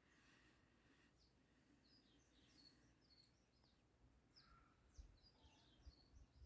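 Faint wild mountain birds chirping, many short high calls overlapping, with a few soft low bumps near the end.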